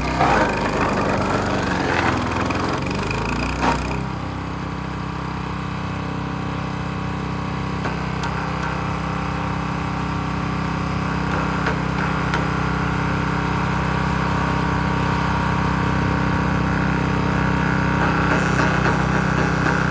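Wood chipper shredder's 7HP 212cc four-stroke gas engine running steadily. For the first few seconds wood is crackling and snapping as it is chipped; this stops about four seconds in, and the engine runs on unloaded.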